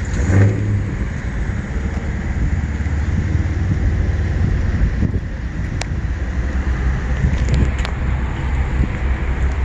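A car engine running steadily, low-pitched, with a brief louder swell just after the start.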